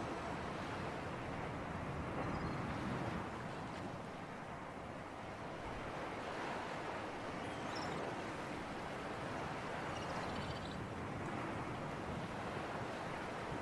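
Sea ambience: surf and sea breeze, a steady rushing that eases slightly partway through and swells again.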